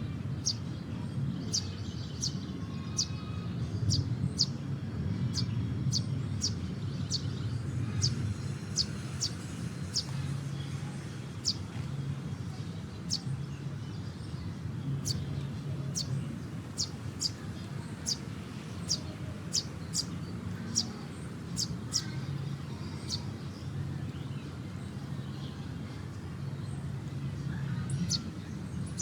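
Small birds chirping: many short, sharp, high chirps, one or two a second at irregular intervals, over a low steady background rumble.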